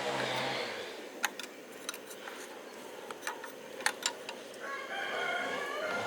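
A rooster crowing near the end, one drawn-out call, after a few scattered sharp clicks or taps.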